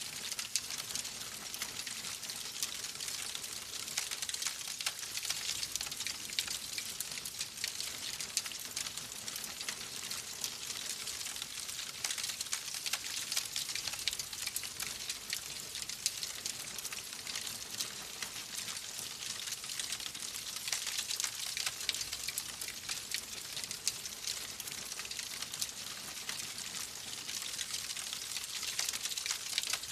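Fireplace fire crackling steadily: a dense run of small pops and snaps over a soft hiss.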